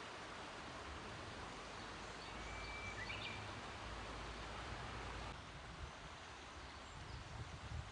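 Steady outdoor background hiss, with a short bird chirp about three seconds in and some low wind rumble on the microphone through the middle.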